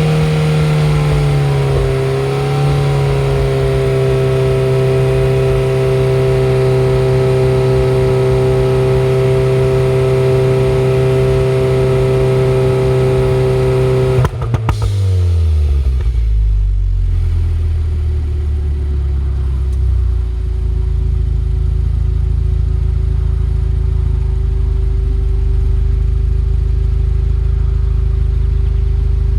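Car exhaust on a Stratified 91-octane tune set up for pops and crackles, held at steady raised revs for about fourteen seconds. Midway the throttle is released, a few sharp pops sound as the revs fall, and the engine settles to a steady idle.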